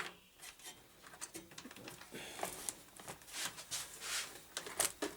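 Scattered light clicks, taps and short scraping sounds of small tools and parts being handled at a workbench, irregular and fairly quiet.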